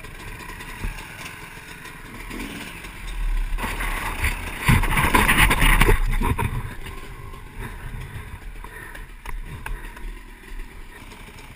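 Dirt-bike engine running, rising to its loudest for a couple of seconds near the middle, then easing off.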